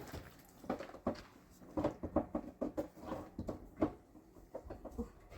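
A run of light, irregular knocks and taps, a dozen or so over a few seconds.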